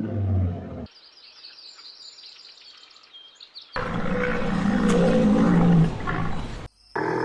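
Large wild animal calls in abrupt cut-together segments: a low growl that stops about a second in, a stretch of high bird chirping, then a long, loud roar that cuts off suddenly, with another animal call starting near the end.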